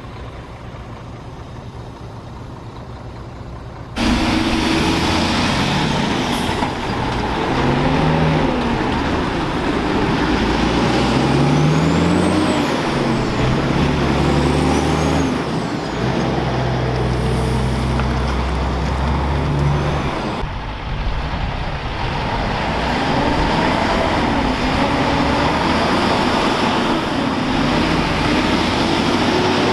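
Heavy truck's diesel engine running, then from about four seconds in pulling hard and much louder, its pitch climbing and dropping again and again as it works up through the gears.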